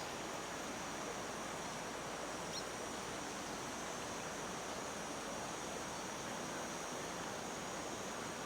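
A river flowing, a steady, even rush of water. A single brief high chirp comes a little over two seconds in.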